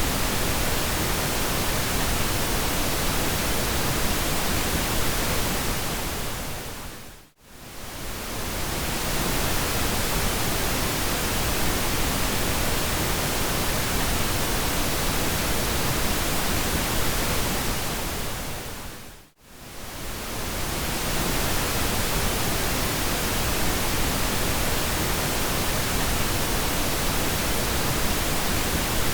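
Steady pink noise, an even hiss across the whole range. It fades briefly almost to silence and back twice, about twelve seconds apart.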